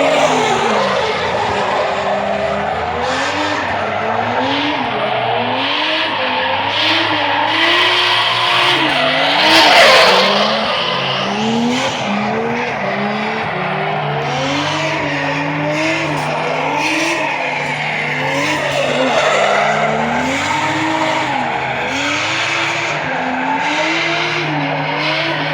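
Drift car engine revving up and down about once a second as the car slides, with tyres skidding and squealing. The loudest surge comes about ten seconds in, and a steady low drone joins in the second half.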